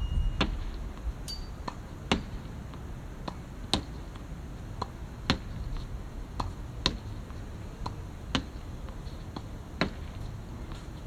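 Badminton racket strikes on a shuttlecock: sharp, irregular smacks about once a second, some louder than others, over a low steady background hum.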